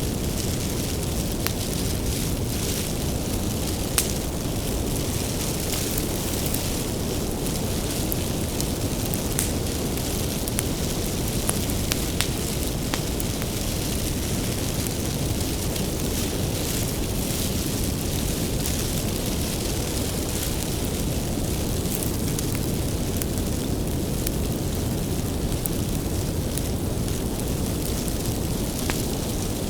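Wood bonfire burning: a steady low rush of flames with scattered sharp crackles and pops from the burning firewood, a louder pop about four seconds in.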